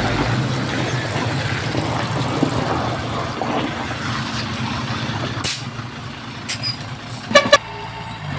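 Heavy construction machinery engine running steadily, with a sharp click about five and a half seconds in and two short horn toots near the end.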